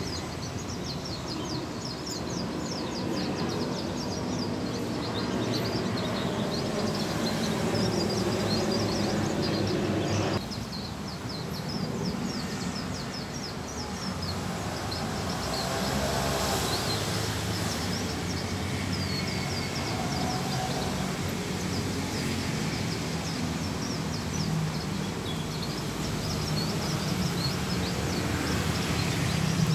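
Small white-eye (pleci) chirping: thin, high chirps repeated several times a second. Under them is a steady low background rumble that drops suddenly about ten seconds in.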